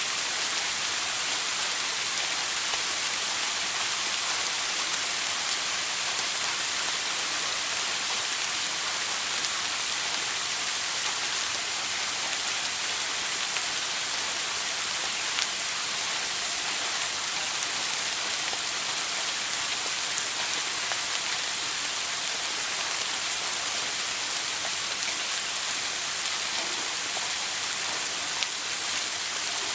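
Shower water running steadily, spray hissing and drops spattering on a hard surface, with a few faint sharper drips.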